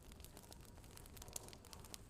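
Faint fire crackling: scattered, irregular small pops and snaps over a low steady rumble.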